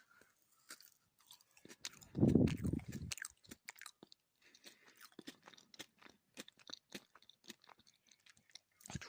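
Close-miked chewing of gummy fruit jelly candy (marmalade): sticky, wet mouth clicks scattered throughout, with one louder, deeper sound lasting about a second, starting about two seconds in.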